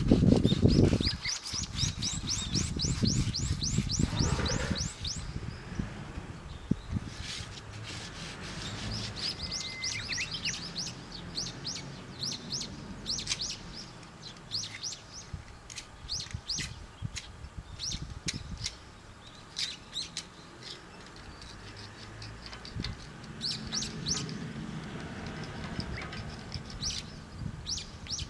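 Small birds chirping, with a fast run of repeated high chirps in the first few seconds and scattered chirps after that. For the first five seconds or so a louder rubbing and scraping comes from hand work on the swing set's rusty steel frame, then stops.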